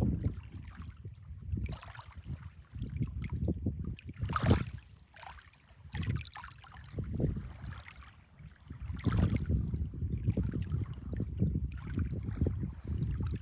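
Water lapping and splashing, with gusts of wind rumbling on the microphone that swell and fade every few seconds.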